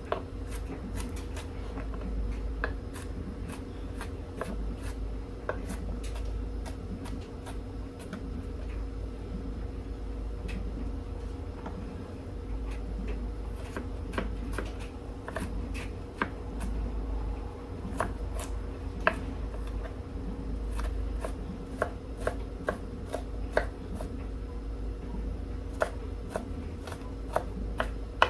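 Knife chopping onions on a cutting board: irregular sharp taps of the blade, coming quicker near the end, over a steady low hum.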